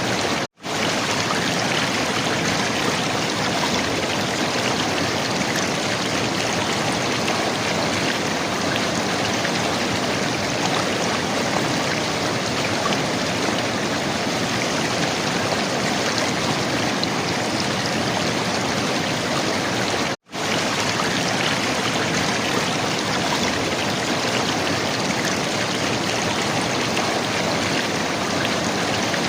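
River water running and gurgling steadily. The sound cuts out for a split second twice, about half a second in and again about twenty seconds in.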